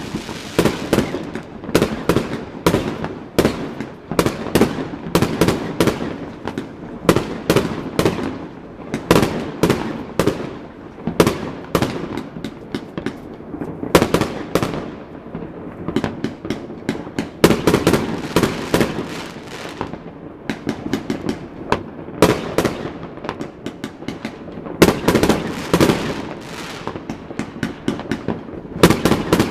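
Fireworks display: many overlapping bangs and crackles going off in irregular rapid succession, with a continuous rumble of further explosions between the loudest reports.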